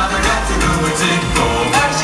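Upbeat K-pop dance track with male voices singing over a heavy bass beat.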